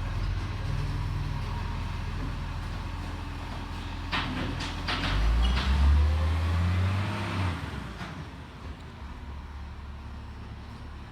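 Garbage truck engine running steadily, with a few sharp knocks about four seconds in. It then revs up for a couple of seconds with a rising whine and drops back to a lower idle.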